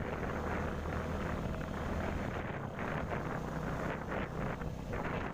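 Motorcycle engine running steadily under way, with wind buffeting the rider's microphone.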